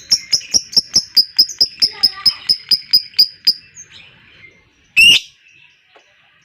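Lovebird's long 'ngekek' chatter: a fast run of sharp, high, evenly repeated notes, about four to five a second, that stops about three and a half seconds in. A single louder, harsh call follows about a second and a half later, over faint chirping of other birds.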